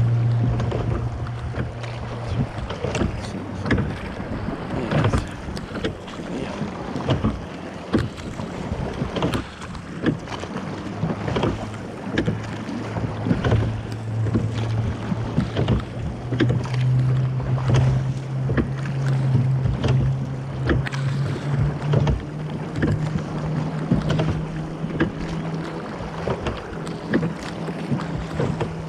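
Cornish pilot gig under oars: irregular knocks and splashes of the oars and water, with wind on the microphone. A steady low hum runs underneath and rises in pitch a little past halfway.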